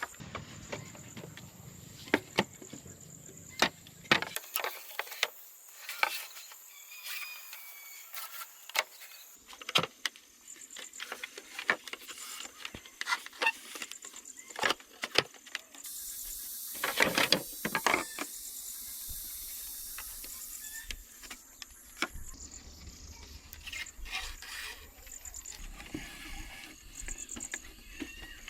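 Irregular knocks and taps of hand work with primitive tools, with a few seconds of steady scraping or hissing noise a little past the middle.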